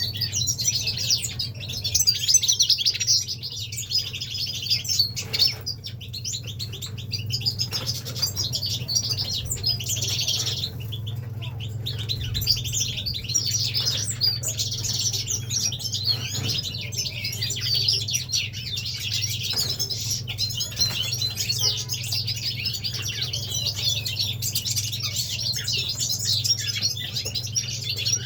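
A group of caged finches chirping, trilling and singing over one another without a break. A steady low hum runs underneath.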